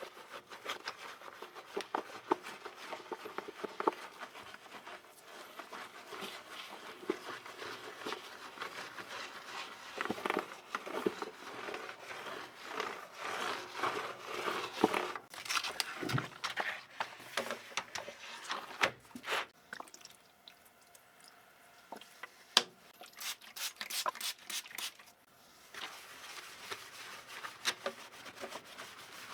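Hand cleaning of a dirty computer keyboard: rubbing and scraping strokes with many small clicks and taps of plastic, busiest in the middle. It eases off briefly past two-thirds of the way through, followed by a quick run of clicks.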